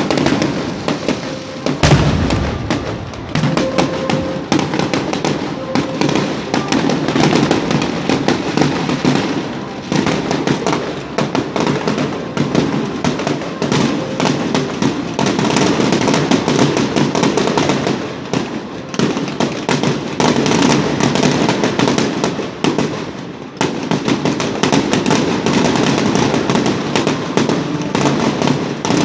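Fireworks display: a dense, near-continuous barrage of crackling bangs and pops, easing briefly twice before picking up again.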